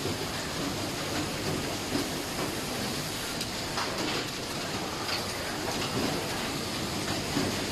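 Automatic towel transverse hemming sewing machine running, a steady mechanical clatter with irregular light clicks about once a second.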